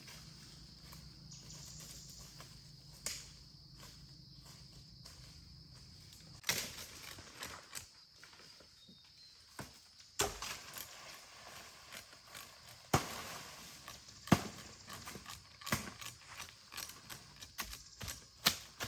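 A run of irregular sharp knocks and clatters, starting about a third of the way in, over a steady high-pitched hum.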